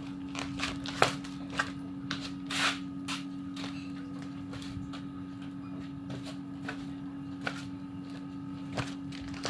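Steady electric machine hum with scattered sharp metallic clicks and knocks of parts and tools being handled, the loudest about a second in.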